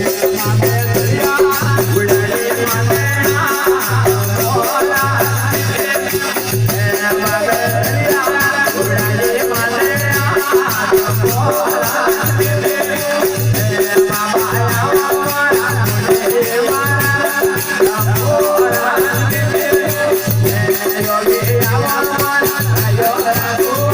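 Rajasthani devotional folk music from a desi veena bhajan: a steady drone, a regular low drum beat, rattling hand percussion and a wavering melodic line.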